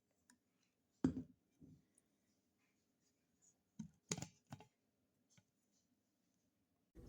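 Scattered light clicks and knocks of objects being handled, the loudest about a second in and a cluster around four seconds in. A steady rushing noise starts right at the end.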